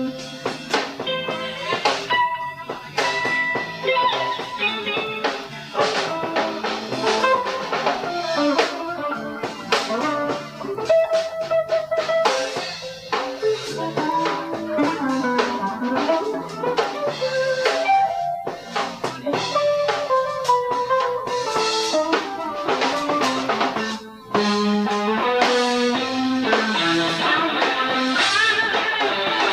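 Live blues-rock band playing an instrumental passage: a guitar plays a bending melodic lead line over bass guitar and a drum kit. The band drops out briefly about three-quarters of the way through, then comes back in.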